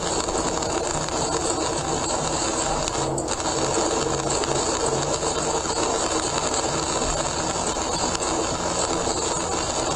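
Steady rain and tyre noise heard inside a car driving on a wet expressway in heavy rain.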